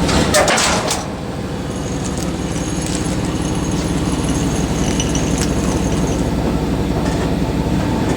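A steady engine idling, with a brief clatter of metal knocks about half a second in.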